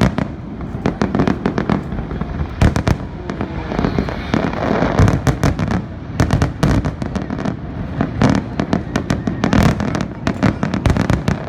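Aerial fireworks going off in a rapid, dense barrage: many sharp bangs and cracks several times a second over a low rumble.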